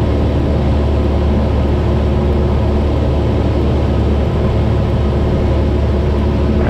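Cessna 172's piston engine and propeller droning steadily in cruising flight, heard from inside the cockpit.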